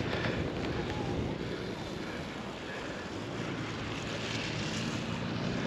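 Steady rushing noise of wind over the microphone, with no distinct events.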